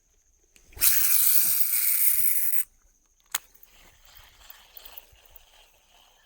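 Baitcasting reel during a cast: a loud, even hiss of line running off the spinning spool for about two seconds, cut off sharply as the spool is stopped, followed by a single sharp click.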